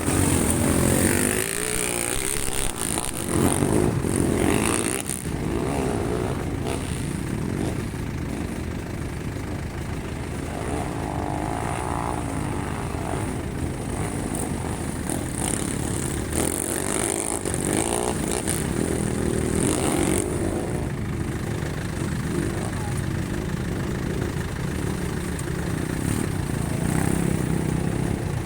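Racing motorcycles' engines revving and passing, the engine noise rising and falling, with louder passes a few seconds in and again about two-thirds of the way through.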